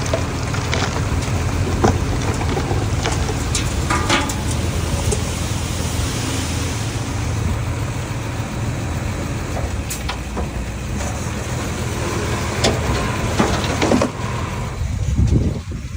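Small bulldozer's diesel engine running steadily under load, with scattered clanks and rattles of tracks and rock.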